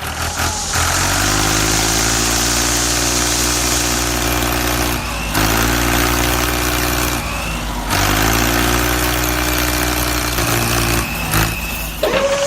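Vehicle engine revving: it climbs in pitch and holds steady, then drops and climbs again twice, a few seconds apart, like shifting up through gears.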